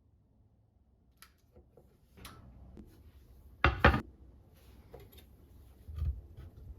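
Household handling sounds: a few light clicks and knocks, then two sharp knocks in quick succession a little past halfway, and another dull knock near the end.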